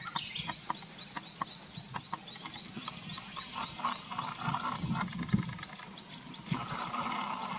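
Oriental greenfinches calling from a tree: a fast, even series of short high chirps, about four a second, over low thuds.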